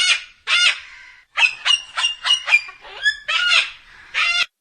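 Cockatoo screeching: about ten harsh calls in quick succession, some short and some drawn out, stopping suddenly near the end.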